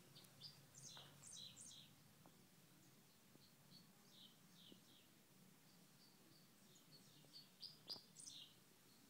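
Faint bird chirps: short, high, falling notes in quick runs of three or four, about a second in and again near the end, with single chirps in between.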